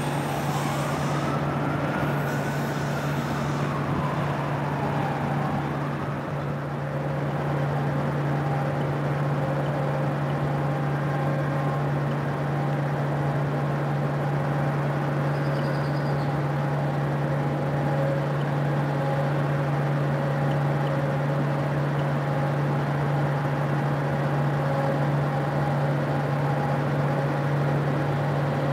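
Freight car wheels squealing on a curve, the pitch wavering up and down, dying away in the first several seconds. Under it, a steady low diesel locomotive drone with a few faint steady tones above it continues throughout and grows slightly louder as a loaded coal train approaches.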